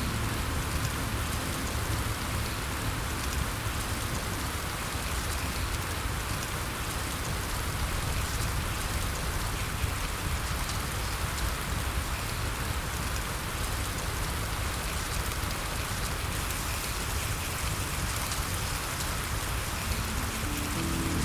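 Steady, heavy rain pattering, a dense, even hiss that doesn't let up.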